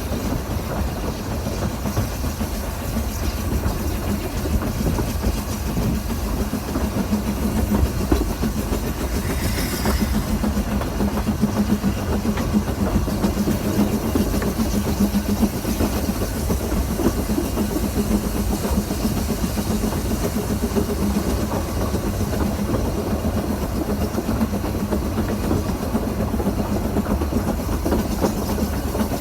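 Narrow-gauge heritage train running along the track: a steady rumble with the clickety-clack of wheels over the rail joints.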